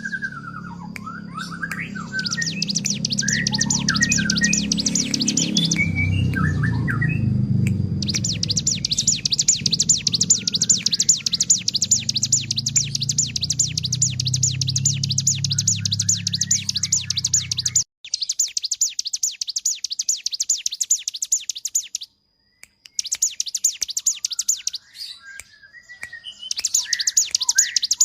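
Hill prinia (ciblek gunung) singing a fast, rattling trill of high notes in long runs of several seconds, broken by brief pauses, with softer chirps mixed in. A low hum lies underneath until it cuts out suddenly about two-thirds of the way through.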